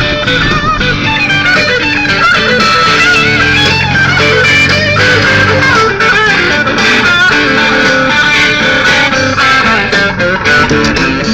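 Rock band playing an instrumental break: an electric guitar lead with bent, gliding notes over bass guitar and drums.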